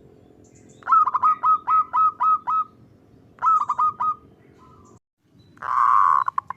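Zebra dove (perkutut) singing: a quick run of seven short notes, a shorter run of four, then one longer, louder note near the end.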